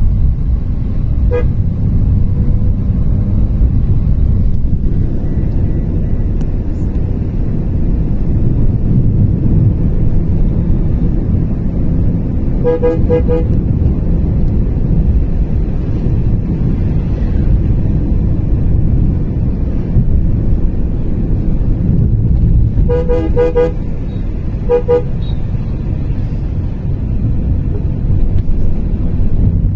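Vehicle horn tooting in short blasts: once near the start, a cluster near the middle, and several more close together about three-quarters through. Underneath runs the steady low rumble of a vehicle on the move, with wind.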